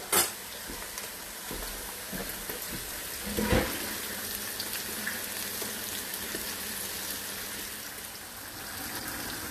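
Battered squash pieces frying in hot oil in an iron wok: a steady sizzle, with a knock against the pan about three and a half seconds in.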